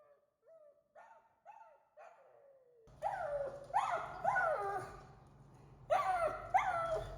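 A dog barking in a regular series of short, high yelps, each falling in pitch, about two a second. The barks are faint at first and much louder from about three seconds in, when a steady low rumble starts underneath.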